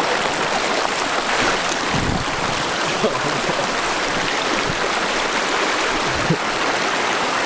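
Steady rush of flowing creek water, with a couple of brief dull thumps.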